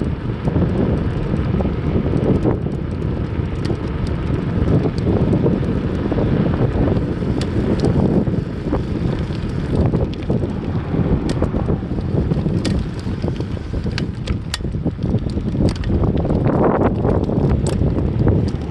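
Wind buffeting the microphone during a bicycle ride, a steady low rumble, with scattered light ticks and rattles, more of them in the second half.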